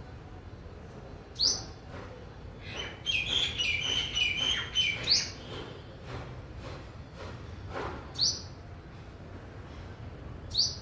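Birds calling: a short, high, falling call repeated four times, about every three seconds, with a burst of rapid twittering between about three and five seconds in.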